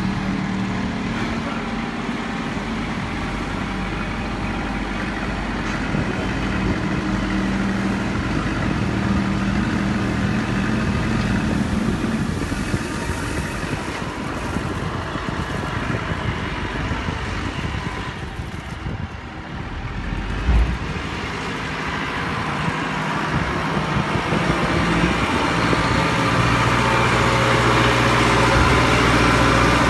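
Engine of construction machinery running steadily, getting louder over the last several seconds, with a single low thump about twenty seconds in.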